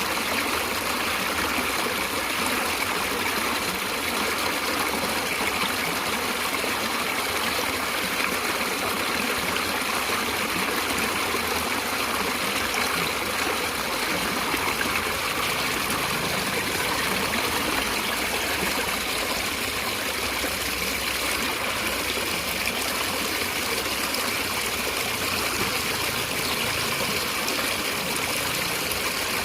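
Stream of water running steadily over stones, a constant trickling and splashing rush with no pauses.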